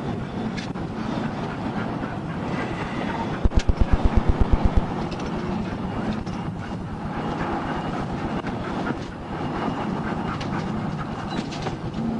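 Road and engine noise of a patrol car driving fast in a pursuit, heard from inside the cabin. About three and a half seconds in comes a quick run of about ten heavy low thuds, roughly eight a second, lasting just over a second.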